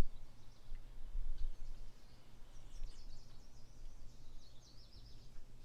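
A wild bird chirping in a quick run of short high calls about halfway in, over a steady low rumble.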